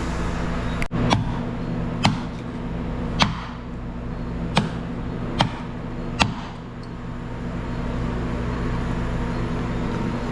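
A knife chopping cooked barbecue meat on a cutting board: six sharp chops about a second apart over a steady low hum.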